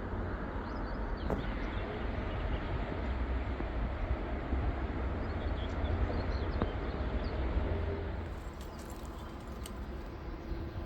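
Low steady rumble of a train, easing off about eight seconds in, with faint bird chirps above it.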